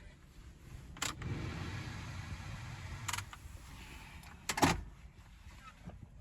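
A few sharp clicks and knocks over a low rumble, the loudest a double knock about four and a half seconds in: handling noises around a pickup truck.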